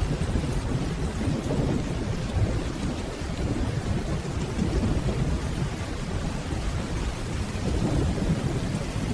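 Steady heavy rainfall with a continuous low rumble of distant thunder beneath it.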